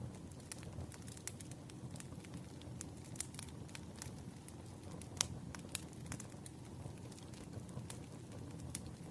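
Wood fire burning: a steady low rumble with scattered sharp crackles and pops, the loudest about five seconds in.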